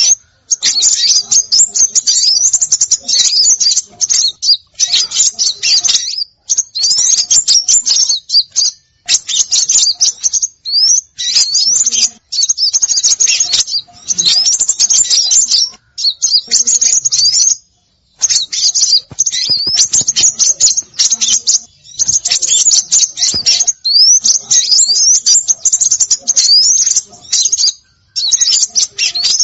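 Bird-lure recording of small songbirds chattering: dense, high-pitched chirps and quick upward-sweeping notes in bursts of one to two seconds, separated by brief pauses.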